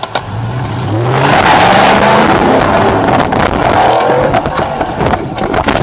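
A vehicle engine revving hard as it accelerates away, its pitch climbing in several rising sweeps over a loud rush of noise.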